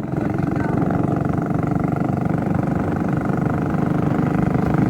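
Tractor's diesel engine running steadily, with a rapid, even chug.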